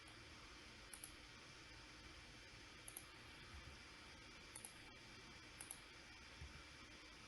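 Computer mouse clicking in quick pairs, four double-clicks spread over a few seconds, over faint steady hiss.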